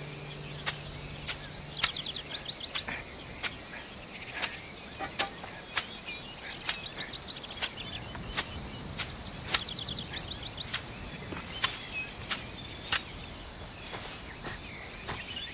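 Countryside ambience: a steady high insect drone with intermittent bird trills, over a series of sharp, irregular clicks about one or two a second.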